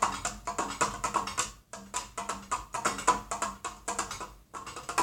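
A ceiling fan played as a percussion instrument: quick, uneven taps and knocks on it, several a second, with a brief pause about a second and a half in. A low steady hum runs underneath.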